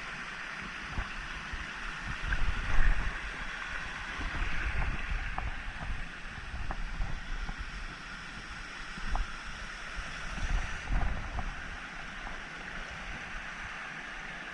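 Small stream running with low flow, a steady rush of water. Irregular low buffeting from wind on the microphone comes and goes, strongest about three seconds in and again near eleven seconds.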